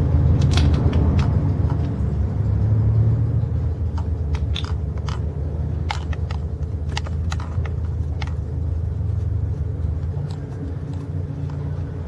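Yamaha 1100 jet ski engine running at a steady idle, a low even rumble, with scattered irregular clicks and ticks over it.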